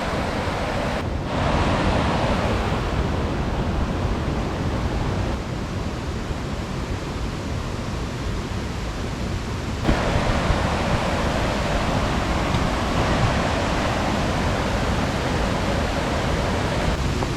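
Steady rush of falling and flowing creek water, its loudness jumping suddenly about a second in and again about ten seconds in.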